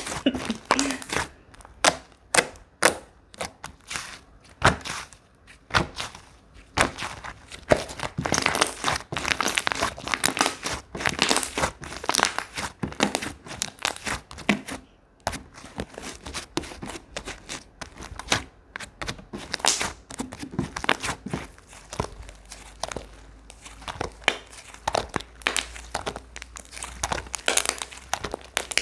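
Slime being squeezed and stretched by hand, giving a dense, irregular run of crackling and popping clicks.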